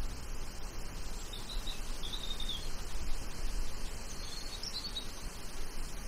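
A small songbird twittering in two short high phrases, the first about a second in and the second about four seconds in, over a steady low rumble of background noise.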